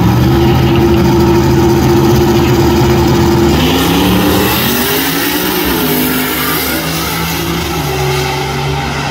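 Race car engine held at steady high revs, then changing pitch, dropping and shifting, about three and a half seconds in, before settling to a lower steady note.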